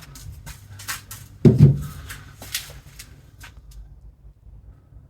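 Work noises from handling parts: a few light clicks and knocks, and one louder dull thump about one and a half seconds in.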